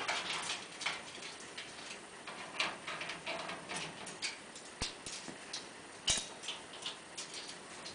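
Irregular small cracks and clicks of peanut shells being cracked and chewed, with a few sharper snaps about five and six seconds in.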